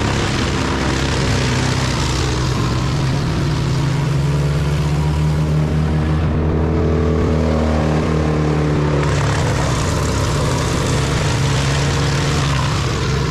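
Wood chipper running loud and steady: an engine drone under the noise of the chipping drum, with the engine's pitch shifting for a few seconds midway.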